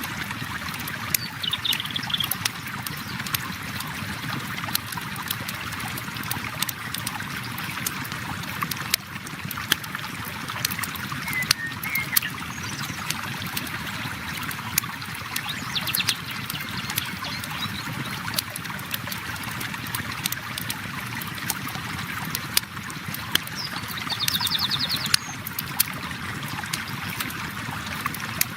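A river flowing steadily, with a campfire crackling over it in frequent sharp snaps.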